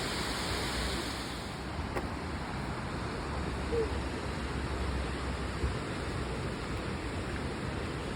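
Waterfalls rushing in a steady, even roar of water, with a low rumble underneath.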